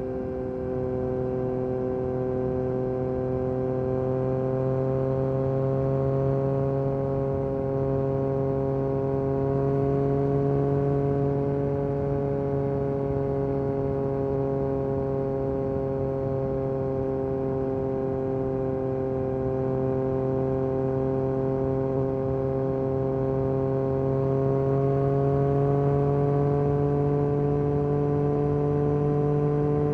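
Yamaha MT-09 SP's three-cylinder engine through an Akrapovic Carbon Racing exhaust, cruising at a steady throttle. Its pitch drifts gently and rises a little near the end.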